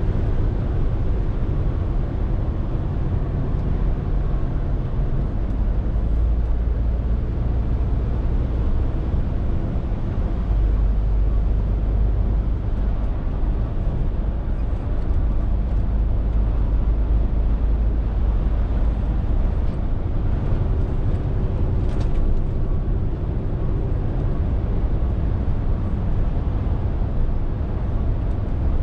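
Scania R450 lorry's six-cylinder diesel running under way, over steady road and tyre noise. The low engine note steps up and down a few times as the load or gear changes, and there is one short click late on.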